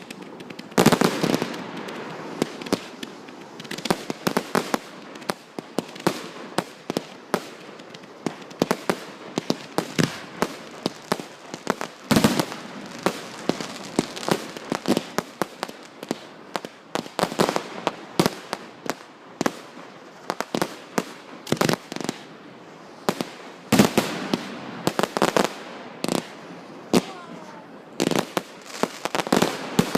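Fireworks going off nonstop: dozens of sharp bangs at irregular intervals. The loudest come about a second in, around twelve seconds and around twenty-four seconds.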